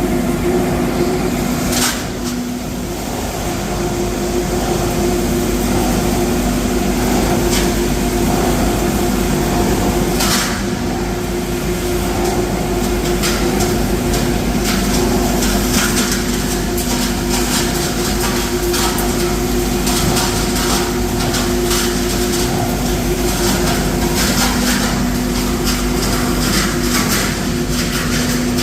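Scrap plastic washing line running: a steady mechanical drone with a constant hum, with scattered clicks and knocks that come more often near the end.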